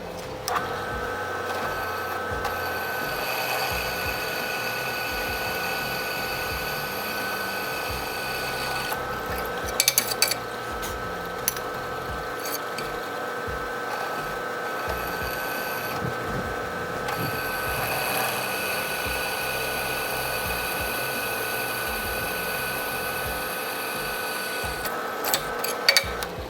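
Drill press starting up and running steadily while drilling holes in steel. There are two spells of cutting noise over the motor, and sharp metallic clinks about ten seconds in and again near the end.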